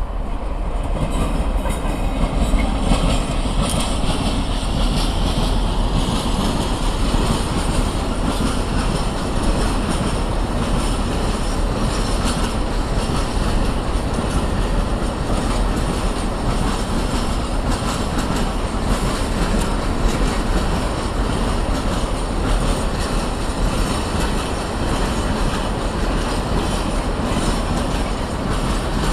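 A train passing close by on the rails: a loud, steady rumble and clatter of wheels on track that does not let up.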